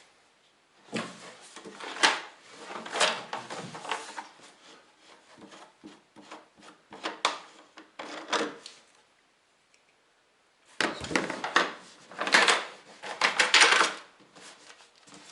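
Parts and packaging of a diesel heater kit being handled during unboxing: irregular knocks, clicks and rustling, with a brief pause and then a louder, denser stretch of rustling and knocking a few seconds before the end.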